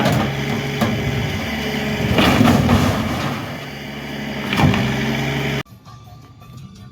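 Car crusher's engine running hard, with a few loud metal crunches and bangs as a car body is crushed. The sound cuts off suddenly near the end, leaving a much quieter low hum.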